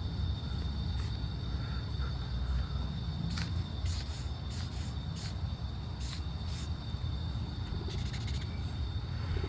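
Drawing strokes scratching on paper: a few short scratches in the middle and a quick run of fast scribbling near the end, over a low steady rumble and a faint high steady whine.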